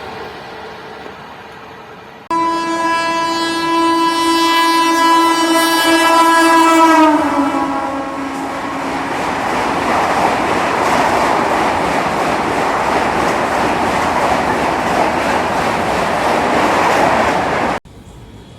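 Indian Railways locomotive horn sounding one long blast starting about two seconds in, its pitch dropping as the train passes. Then the passing train's wheels rumble and clatter steadily over the rails until the sound cuts off abruptly near the end.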